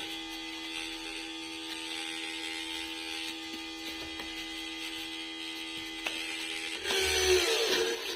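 Small 775 DC motor of a homemade drill running with a steady hum. About seven seconds in it gets louder for about a second and its pitch dips and recovers.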